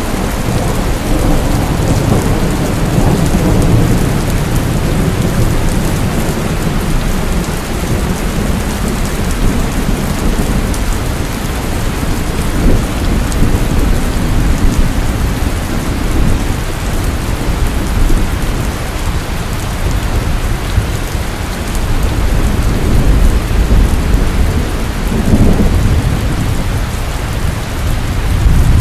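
Heavy rain pouring steadily, with low rolling thunder rumbling through it, swelling a couple of seconds in and again near the end.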